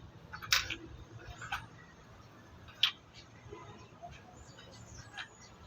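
A few sharp clicks and knocks, four spread over several seconds, over a faint low hum.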